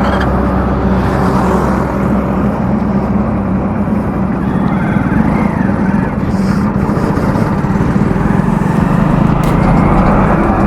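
Hero Splendor Plus BS6 motorcycle's small single-cylinder engine running steadily while being ridden, with steady road and wind noise.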